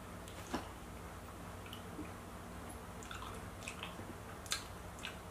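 Quiet wet chewing and mouth clicks of someone eating mangosteen, with two sharper clicks, about half a second in and again near the end.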